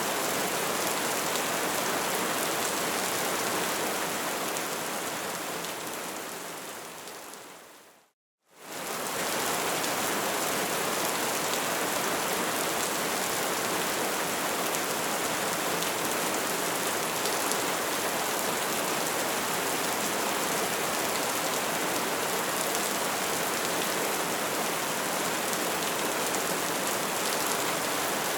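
Wood fire burning with a steady, dense crackle. About eight seconds in it fades out to a moment of silence, then quickly comes back.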